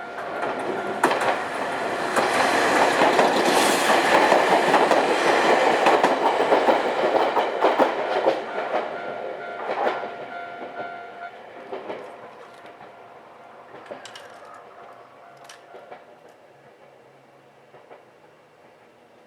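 A Nankai Kada Line electric train passing over a level crossing, its wheels clattering over the rail joints, loudest in the first half and then fading as it moves away. The crossing's warning alarm sounds steadily underneath and stops partway through.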